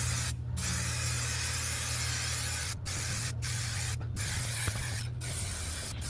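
Spray paint hissing onto the cleaned steel fireplace in a series of bursts, several seconds of spraying cut by brief pauses, with a low steady hum underneath.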